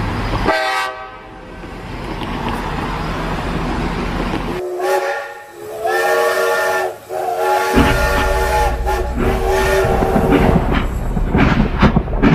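Battery toy train's built-in sound effects: a steam hiss, then a whistle sounding in two blasts about five seconds in. The rumble of the train running on its track stops early on and comes back under the second blast.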